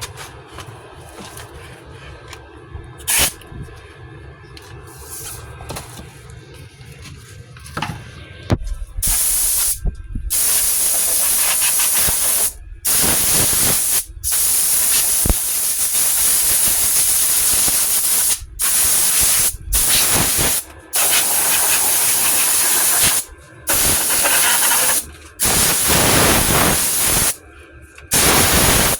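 Compressed air hissing from an air hose tool in about ten loud bursts of one to four seconds each, starting about eight seconds in, each cut off sharply. Before that, quieter handling noise with a single click.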